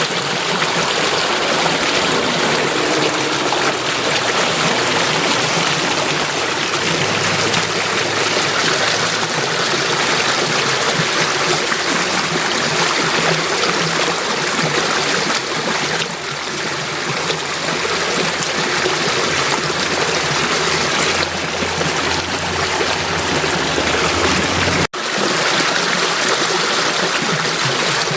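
Steady rushing and trickling of flowing stream water, cutting out for an instant about 25 seconds in before carrying on.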